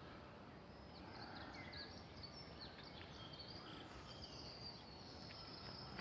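Faint birdsong outdoors: many short, high chirps and twitters from small birds, scattered throughout, over a low steady background noise.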